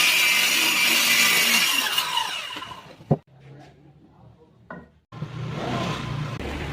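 A power saw cutting through wood with a steady whine, fading out about two to three seconds in, followed by a sharp knock. Another noisier stretch starts near the end.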